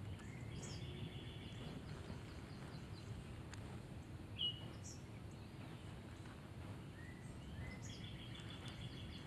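Wild birds calling over a low steady outdoor rumble: a run of rapid repeated notes near the start and again near the end, and one short sharp chirp midway.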